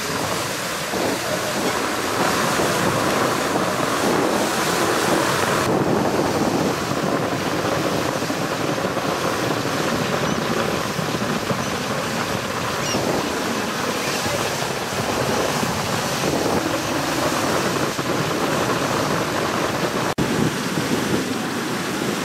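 Wind rushing across the microphone over the steady rush of water, heard from a boat on the fjord. The noise shifts about six seconds in and breaks off for an instant about twenty seconds in.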